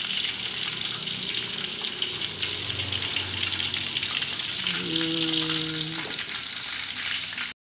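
Chicken pieces deep-frying in a wok of hot oil: steady sizzling and crackling. It cuts off suddenly near the end.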